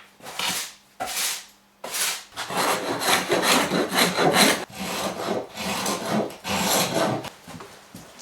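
Repeated strokes of a hand tool shaving a wooden door's edge: three short strokes, then a quicker run of strokes that eases off near the end.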